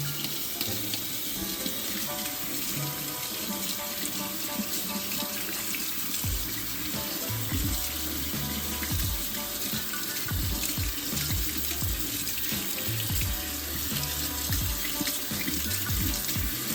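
Tap water running and splashing in a sink as parts are washed. Background music plays underneath, and a steady low beat comes in about six seconds in.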